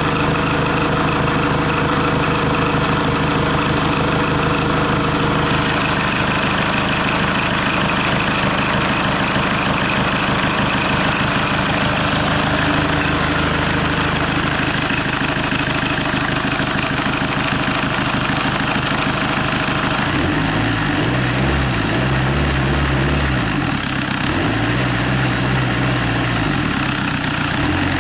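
Hyundai/Kia D4CB 2.5-litre four-cylinder diesel engine running steadily, as for an oil pressure check. About two-thirds of the way through, its pitch starts swelling and falling back a few times.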